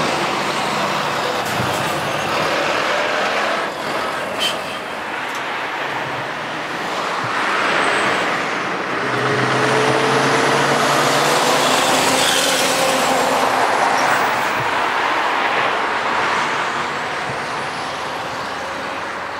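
Scania V8 diesel truck engines with open exhaust pipes running and revving, rising in pitch and loudness to their loudest about halfway through, then easing off.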